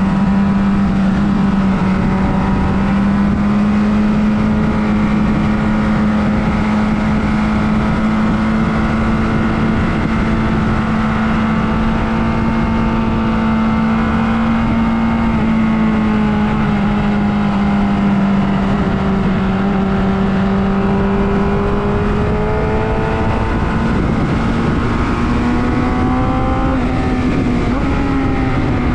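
Motorcycle engine running at a fairly steady pitch under heavy wind rush, with the pitch rising near the end and then dropping.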